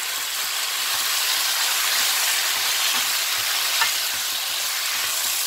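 Gochujang-marinated pork with sliced onion and green chili sizzling in a hot frying pan on high heat, turned and scraped with a wooden spatula; a light click of the spatula a little under four seconds in.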